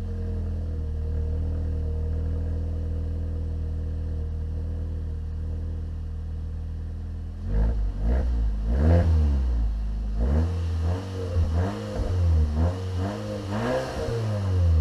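Seat Leon Cupra R's 2.0 TFSI turbo four-cylinder through a Milltek non-resonated catback exhaust, idling steadily. About halfway in the engine is blipped repeatedly, with a string of short revs rising and falling in pitch.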